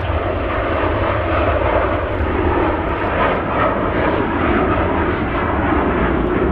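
Aircraft engines running loud and steady: a dense, unbroken rumble of engine noise with a heavy low end.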